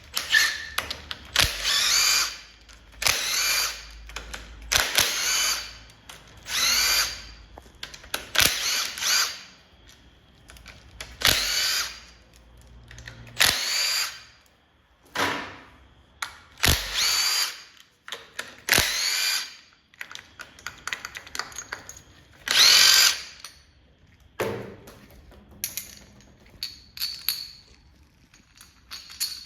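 Cordless power drill-driver run in about a dozen short bursts, each spinning up in pitch for about a second and stopping. Near the end the bursts give way to a few light clicks and rattles.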